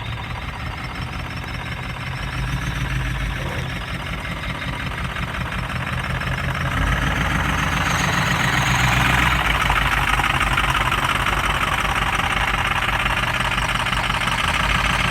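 2005 Ford F-450's Power Stroke turbo diesel V8 idling steadily, growing louder from about halfway through.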